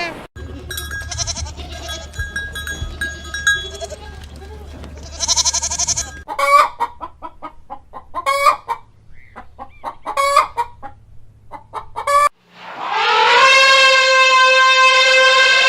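Animal calls in three separate parts: thin steady tones for the first several seconds, then a run of short repeated calls, then one loud, long call of about three seconds near the end.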